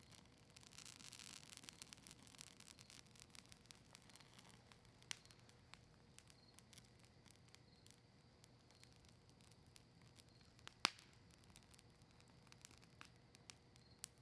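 Campfire of maple wood and cedar leaves crackling softly, with scattered small pops. A faint hiss rises for a second or two near the start, and one sharper, louder pop comes about eleven seconds in.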